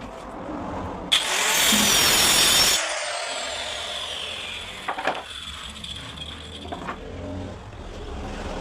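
Electric woodworking power tool cutting into wood: a loud pass of about a second and a half starting about a second in, then the tool running on more quietly.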